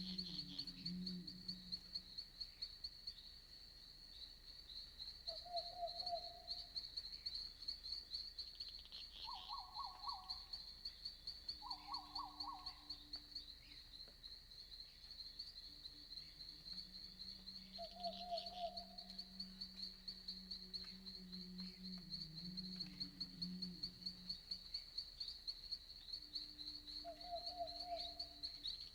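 Night forest ambience: insects chirring in a steady high-pitched pulsing trill. Through it come a handful of short calls from other night animals, about a second each, and a long, low, drawn-out hooting that runs for several seconds past the middle.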